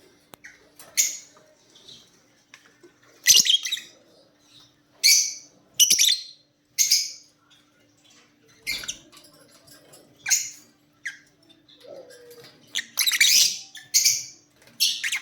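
Lovebirds giving short, sharp, high-pitched squawking calls, about ten of them at irregular intervals.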